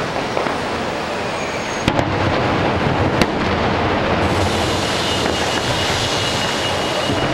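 Fireworks going off: two sharp bangs about two and three seconds in, over a steady, dense noise of further bursts.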